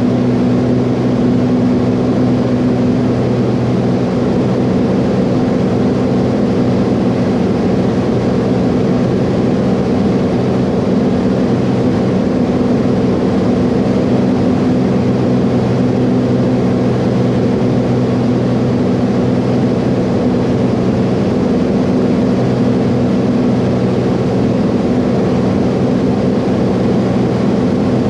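Piston-engine propeller aircraft heard from inside the cabin, the engine and propeller running at a steady, unchanging pitch as in cruise.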